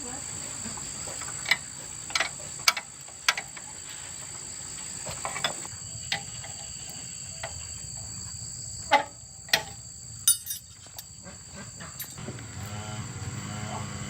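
Steady high-pitched drone of insects, with a dozen sharp knocks and clicks of hand work scattered through it. About twelve seconds in, a small motor starts up and runs with a low hum.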